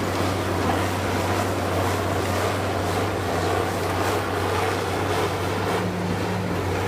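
An engine running steadily: a constant low drone with a rough noise over it, its pitch and level unchanging.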